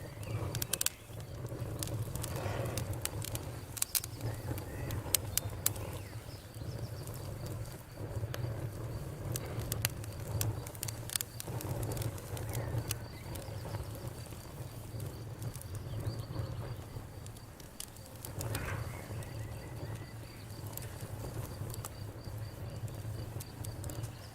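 Wood campfire crackling, with frequent sharp pops and snaps over a low steady rumble.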